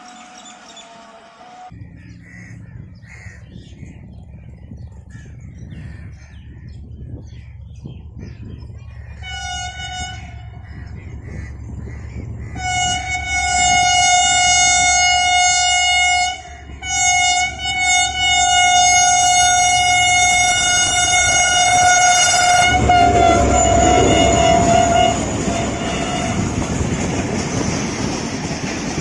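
Diesel locomotive approaching with a steady low engine rumble, sounding its horn: one short blast about ten seconds in, then long blasts held for several seconds with brief breaks. Near the end the express runs through close by, its coaches rushing past with wheels clattering over the rail joints.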